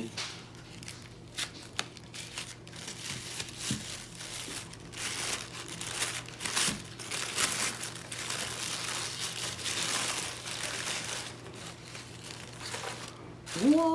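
Packaging crinkling and tearing in irregular rustles as a new knife is unwrapped by hand.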